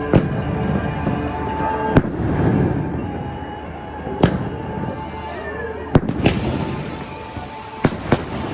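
Firecrackers going off: about seven sharp bangs at irregular intervals, two of them close pairs, over a continuous background of music and outdoor noise.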